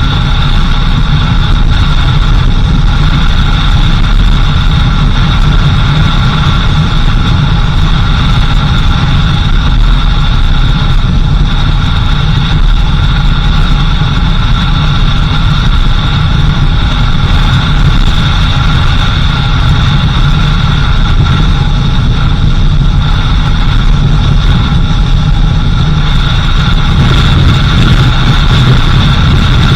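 A car's engine running steadily with road noise while the vehicle is under way, loud and even with no breaks.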